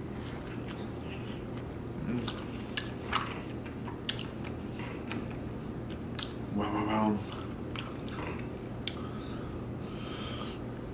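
Close-miked chewing and biting of chicken wings, with wet mouth smacks and sharp clicks scattered through. A brief hum-like vocal sound comes about two-thirds of the way in.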